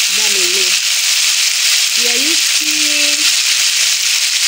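Goat meat, tomatoes and onions frying in oil in a pot, with a steady hissing sizzle. Two brief pitched sounds come over it, one at the start and one about two seconds in.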